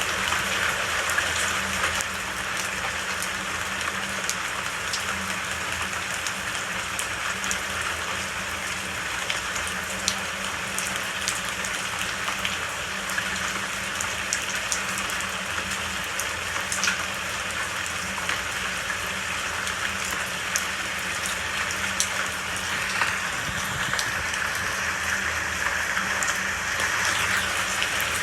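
Steady rain with many individual drops pattering, an even hiss with small crisp ticks from drops striking close by.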